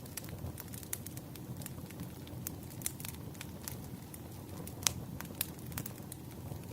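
Campfire burning: a steady low rush of flame with frequent sharp crackles and pops, the loudest pop about five seconds in.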